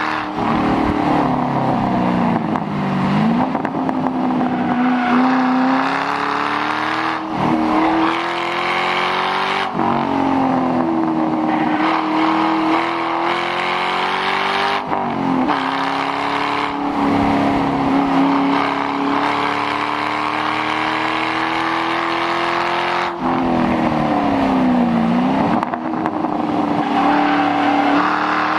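2006 Mustang GT's V8 with the mufflers deleted, driven hard on a track. The engine note climbs steadily under acceleration, then drops sharply and comes back up several times as the car lifts, brakes and shifts.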